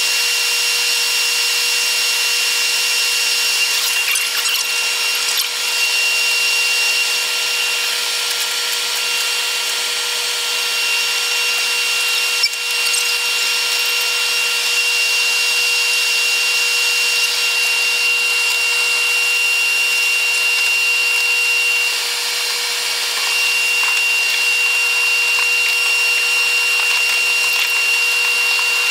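Running sound of a Taiwan Railways EMU100 electric train played back eight times fast, heard as a steady high-pitched whir with several fixed whining tones and no low rumble. It dips briefly a little over twenty seconds in, with a single click near the middle.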